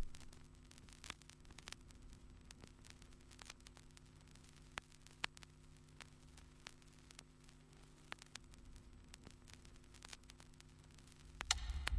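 Faint vinyl record surface noise: scattered clicks and crackle over a steady low hum, as in a record's lead-in groove. Something much louder starts just before the end.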